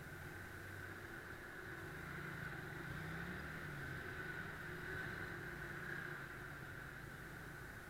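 Motorcycle engine running at low speed in slow traffic, a steady low hum that rises briefly in pitch about three seconds in, with a constant high-pitched whine over it.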